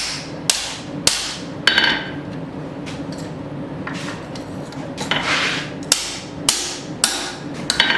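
A 3-pound blacksmith's hammer striking a hot mild-steel bar on the anvil, bending it around the horn to wrap a tomahawk eye. There are about four ringing blows in the first two seconds, a pause, then about five more near the end.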